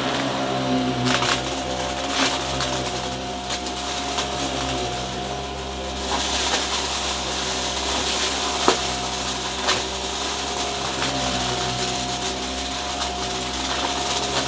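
Upright vacuum cleaner running with a steady motor hum as it sucks up crunchy debris, with scattered sharp clicks as bits are picked up, one louder click past the middle.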